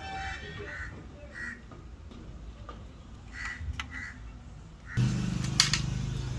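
Repeated short bird calls. About five seconds in, a steady mechanical hum starts, with a sharp click shortly after.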